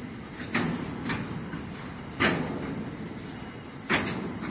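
Freight train of covered hopper cars rolling past, its steel wheels rumbling on the rails, with four sharp clunks at uneven spacing as wheels strike the track.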